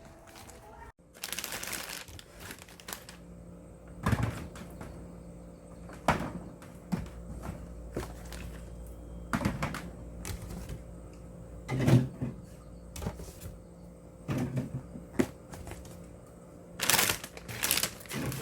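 Irregular knocks, clicks and clatter of objects being handled, a few with a dull thud, and a short rushing noise about a second in.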